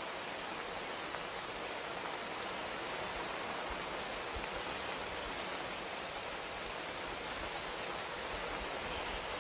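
Steady rain falling, an even hiss of water with no let-up. Faint, short high peeps recur about every half second above it.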